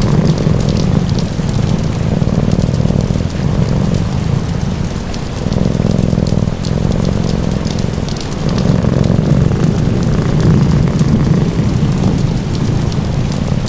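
A cat purring in slow swells that rise and fall every few seconds, mixed with steady rain and the small sharp crackles of a fireplace fire.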